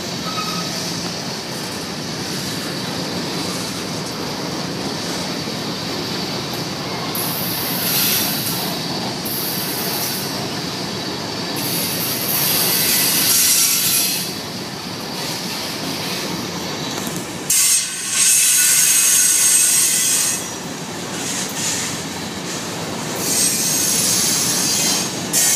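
Two freight trains rolling past at once, a covered-hopper grain train and a double-stack intermodal, with a steady rumble and clatter of wheels on rail. High-pitched wheel squeal rises and falls several times, loudest about halfway through and again about three-quarters through.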